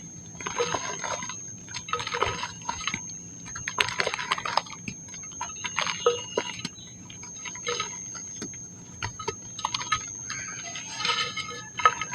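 Dry pink mud crumbling and crunching, in short crackly bursts about every two seconds.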